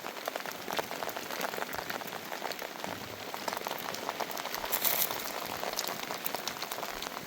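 Steady rain falling, a dense patter of many small drops, with a brief louder rush of noise about five seconds in.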